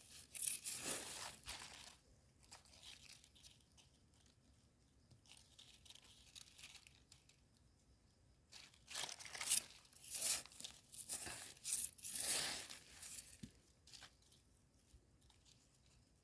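Rustling, tearing and crunching from termite mushrooms being picked by hand. It comes in two spells of irregular bursts, one at the start and one around the middle, with a quiet stretch between.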